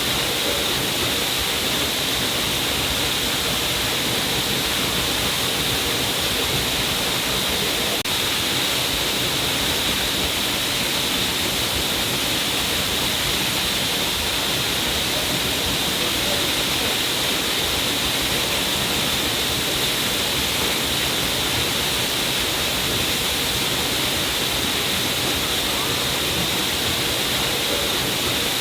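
Stream of water falling down a rock cliff: a steady, unbroken rush of splashing water with a hissy upper edge.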